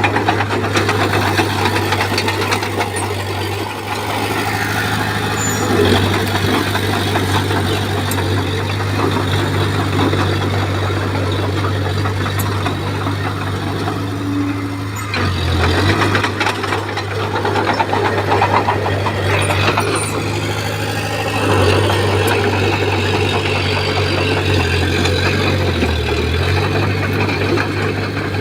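Komatsu bulldozer's diesel engine running under load while pushing soil and stone, with a steady hum and a continuous grinding, clattering noise over it. The engine note dips briefly twice, about halfway through and near the end.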